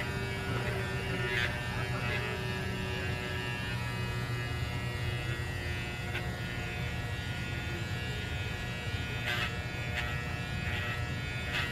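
Electric pet clippers running with a steady buzz while shaving a small dog's coat.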